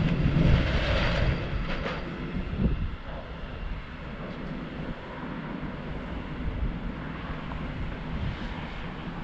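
A train running away along the track, its rumble loudest in the first couple of seconds and then fading into a low, steady background rumble as it recedes.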